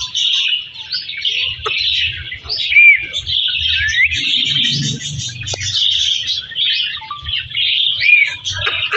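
Parrot chirping and chattering without a break, with short whistled notes that slide up or down in pitch.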